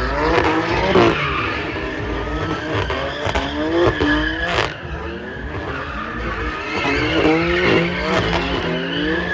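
A car being driven hard with its tyres squealing: the engine revs up and down again and again in quick sweeps, as in drifting or a burnout.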